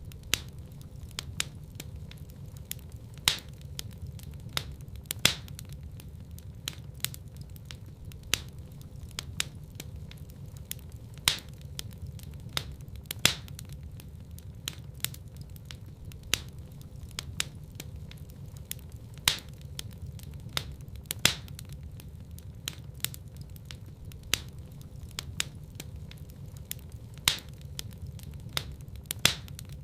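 Wood fire burning in a fireplace, crackling: a steady low rumble of the flames with irregular sharp pops and snaps several times a second, a few much louder than the rest.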